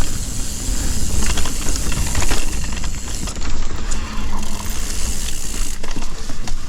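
Mountain bike riding along a dirt forest trail: steady wind rumble on the microphone and tyre noise, with scattered knocks and rattles from the bike going over bumps.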